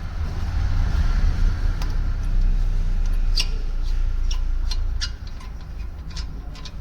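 Sharp metallic clinks and taps of hand tools on a car's front suspension parts during drive shaft removal, over a steady low rumble that falls away about five seconds in.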